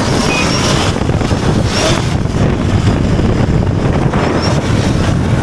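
Wind buffeting the microphone of a rider moving at speed on a Sur-Ron electric dirt bike: a loud, steady rush with most of its weight low down.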